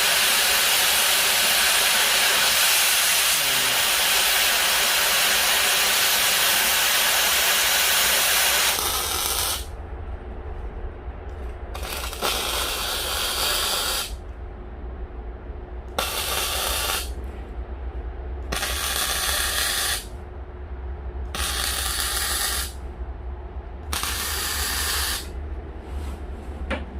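Oxygen cutting torch hissing hard and steadily for about nine seconds, then in a series of short hissing spells of a second or two each, with a low hum underneath.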